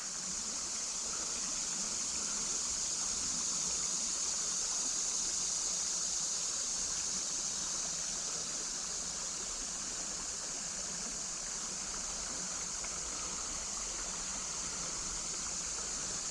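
Creek water rushing steadily over rocks, with a steady high-pitched drone of cicadas above it.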